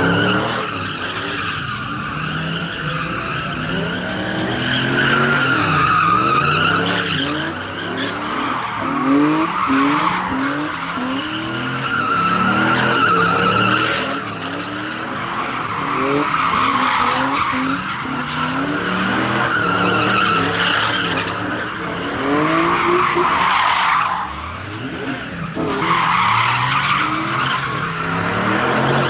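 Car tyres squealing in a long, wavering screech while the engine revs up and down again and again: a car spinning burnouts or donuts. The squeal breaks off briefly twice.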